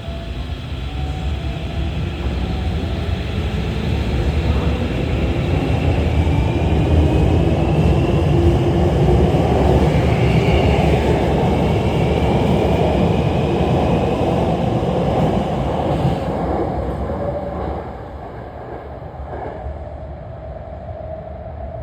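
Hankyu electric train running on the rails: a heavy rumble of wheels and running gear that builds to its loudest in the middle and drops off sharply about 17 seconds in, with thin gliding whines from the motors above it.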